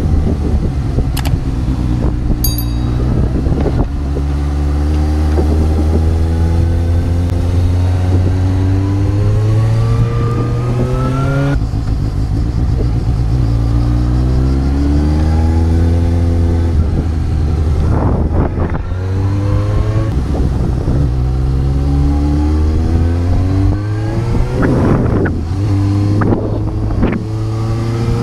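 Suzuki GSX-S750's inline-four engine pulling the motorcycle along, its pitch climbing steadily with speed. The pitch drops suddenly at a gear change about twelve seconds in, then climbs again. Wind buffets the helmet microphone now and then in the second half.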